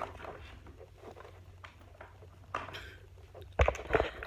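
Light taps, scrapes and rustles of plastic toys being handled, as dolls are put into a toy car and moved. A few louder knocks come near the end, over a steady low room hum.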